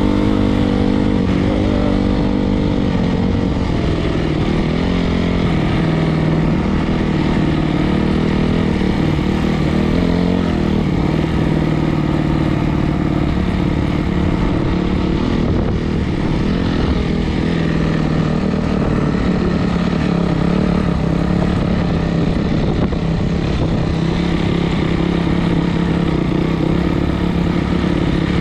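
Four-stroke single-cylinder dirt bike engine running continuously, its pitch wavering up and down with the throttle for the first ten seconds or so, then holding steadier.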